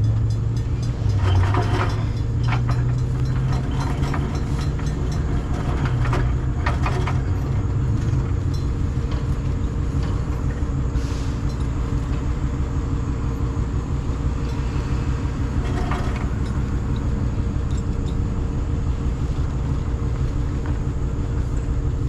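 Tow truck engine running steadily, its pitch rising for a few seconds near the start, with scattered metallic clanks and rattles of chain and hooks as a wrecked car is hooked up with a V bridle.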